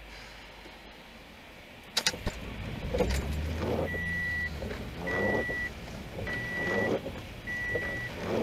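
A sharp click about two seconds in, then a low rumble. From about four seconds in, an electronic warning beeper sounds a steady high beep about once every 1.2 seconds.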